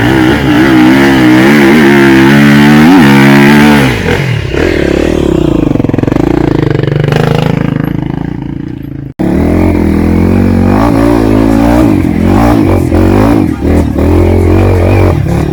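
Trail motorcycle engine revving unevenly under load, its pitch rising and falling. It cuts out abruptly for an instant about nine seconds in, then runs on at a lower, steadier pitch.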